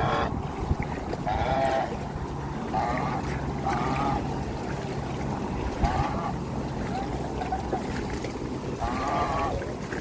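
Wind rumbling on the microphone over moving floodwater, with short pitched animal calls repeating every second or two.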